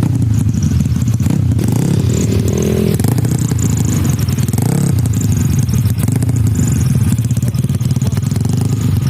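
A tuned Yamaha Mio scooter engine running loudly and steadily, with a fast, rough firing pulse.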